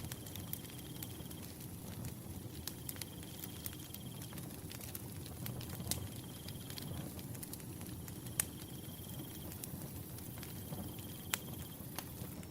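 Wood fire crackling, with scattered sharp pops over a low rumble. A cricket trills in short pulsed bursts about every two and a half seconds, five times.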